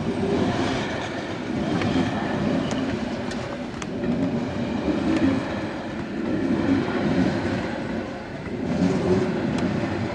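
Metre-gauge Matterhorn-Gotthard-Bahn passenger coaches rolling past. Their wheels on the rails make a steady rumble that swells and fades every second or two, with a few sharp clicks.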